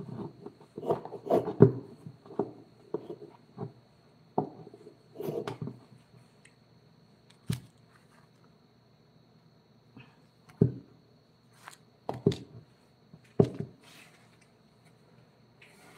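Scattered wooden knocks and clicks of carving tools and a wooden piece being handled and set down at a workbench: a quick cluster at first, then single knocks a second or two apart.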